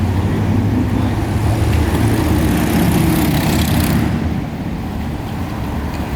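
Motor engine running with a steady low rumble, overlaid from about a second and a half in by a rushing hiss that cuts off sharply about four seconds in.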